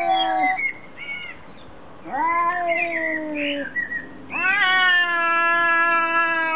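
Tabby cats in a face-off trading long, drawn-out yowls, the caterwauling of a territorial threat display: a short call about a second in, a yowl falling in pitch near the middle, and a long steady one held for about three seconds near the end.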